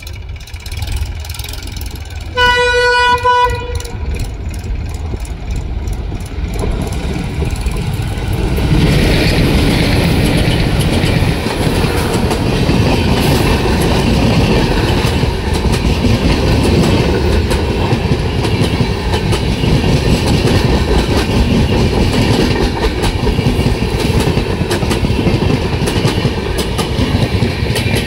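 Twin WDM3D diesel locomotives sound one horn blast lasting about a second, then a rumble of engines and wheels builds as the train arrives. The passing coaches keep up a steady clickety-clack of wheels on the rails.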